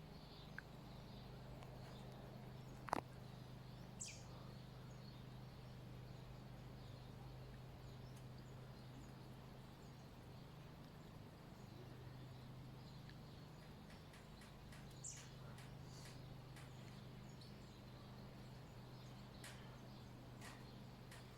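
Near silence: a faint steady low hum, with a sharp click about three seconds in and a few fainter clicks and ticks later.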